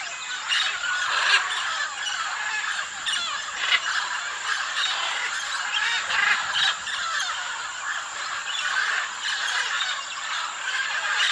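Dense chorus of frogs and birds calling over one another, many short overlapping calls, with a steady high-pitched whine above them.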